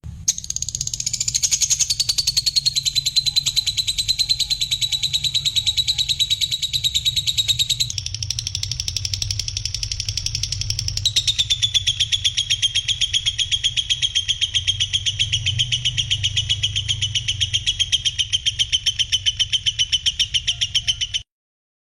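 Songbird giving a long, rapid, rattling trill of rough calls, the pitch sinking slowly through each phrase, with new phrases starting about 8 and 11 seconds in, over a low hum; it cuts off abruptly shortly before the end.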